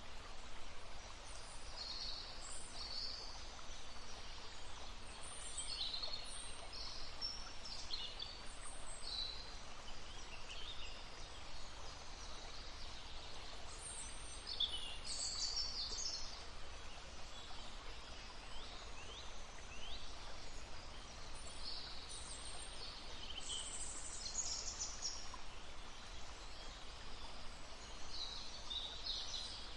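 Songbirds calling and singing in short, high chirping phrases, scattered throughout and busiest around the middle and again a little later, over the steady babbling of a stream.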